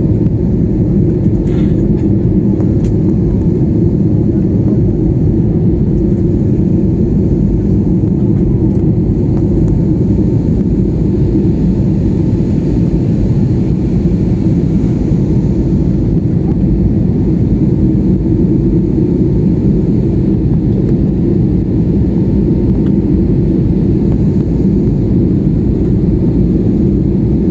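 Airliner cabin noise: the steady, deep rumble of jet engines and airflow heard from inside the passenger cabin.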